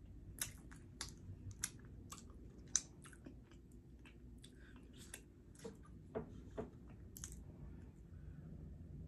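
A person chewing a mouthful of food with the mouth closed: a run of wet clicks and smacks, thick at first, thinning out after about three seconds and stopping about seven seconds in.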